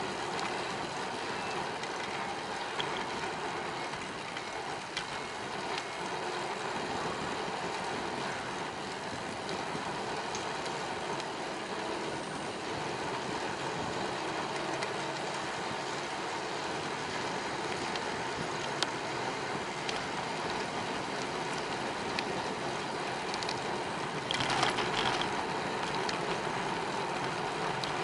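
Steady rolling noise of a bicycle ride: tyres running on the path with wind noise, and a brief louder rattle near the end.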